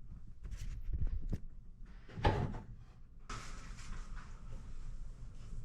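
Light clicks and a knock of a screwdriver and hands working small screws on a tankless water heater's panel, followed by a faint steady hiss from a little past halfway.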